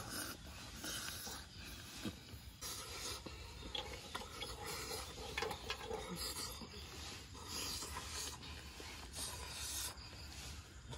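Chewing and crunching on cooked scorpions: irregular crisp crackles and rasping noises.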